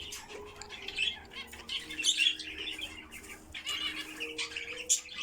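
A flock of pet cockatiels, budgies and lovebirds chirping, chattering and squawking together, many quick overlapping calls at once.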